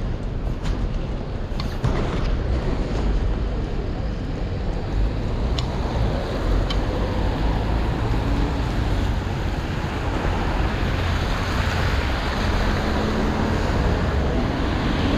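Steady wash of rain and wind buffeting the microphone, a low rumble under a wide hiss, with a few faint clicks in the first seven seconds.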